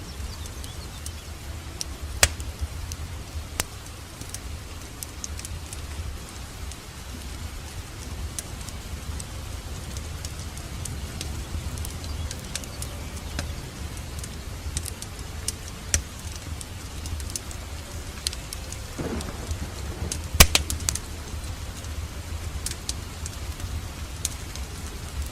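Wood fire crackling in a fireplace: a steady low rumble of burning with scattered sharp pops, the loudest cluster about twenty seconds in, just after a short falling whistle from the fire.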